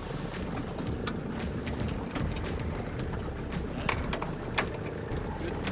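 Steady low rumble of wind and water around a small aluminum fishing boat, with a few sharp clicks and knocks of gear being handled aboard, the loudest about four seconds in.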